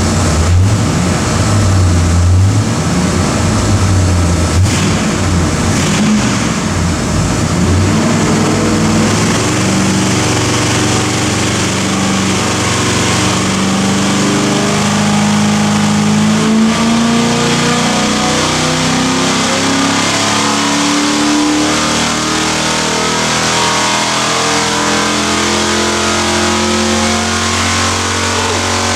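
383 Chevy small-block stroker V8 running on an engine dyno through a full-load power pull, engine speed climbing steadily for most of the run.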